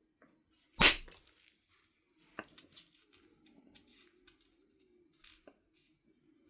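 Knapping of a Knife River Flint biface: one sharp, loud strike about a second in, then a scatter of lighter clicks and ticks of stone on tool and stone.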